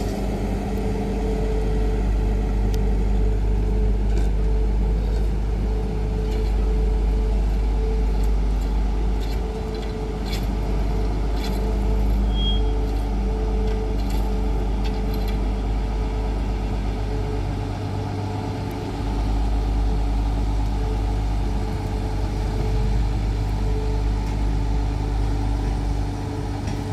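Electric tram running slowly: a steady low rumble with a hum that keeps fading in and out, and scattered clicks through the middle stretch.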